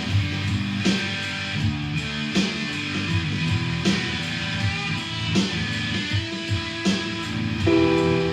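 Instrumental acoustic guitar music: chords strummed with a sharp accent about every second to second and a half, swelling fuller near the end.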